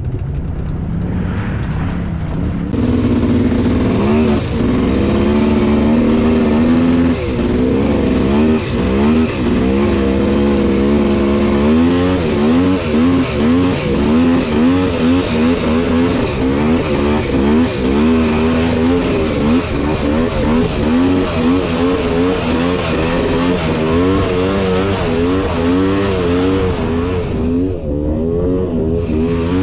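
Polaris Scrambler 400 two-stroke ATV engine running under throttle on a muddy trail, its pitch rising and falling over and over as the throttle is worked. It gets louder about three seconds in.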